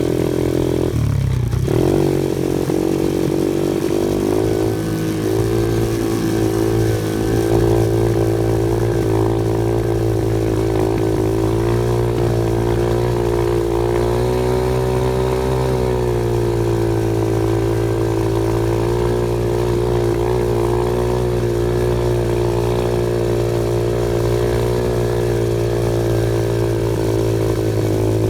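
Off-road vehicle engine running steadily under throttle, with a brief drop in revs about a second in before it picks back up.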